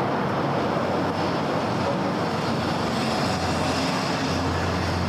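Steady city road traffic: a continuous wash of cars and tyres on a busy street. About three seconds in, a low engine hum from a nearer vehicle rises and holds.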